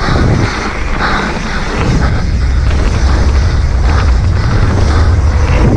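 Wind buffeting the microphone of a mountain biker's action camera, with tyre rumble on a dirt trail and a couple of sharp knocks from the bike over rough ground near the start and end.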